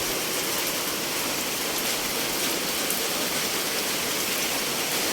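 Steady, even hiss of water in a flood, with a faint pattering of drops in it.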